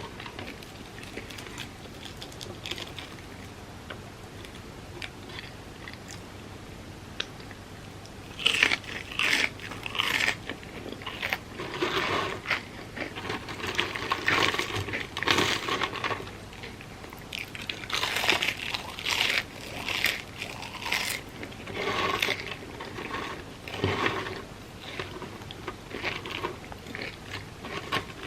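Close-miked eating of crispy fried food: quiet chewing at first, then loud crunching bites and chewing in repeated bursts from about eight seconds in.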